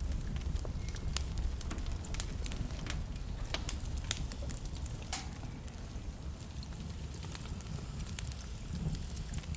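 Wood fire burning in a fireplace, with a steady low rumble and frequent sharp crackles and pops from the burning logs; a louder pop comes about five seconds in.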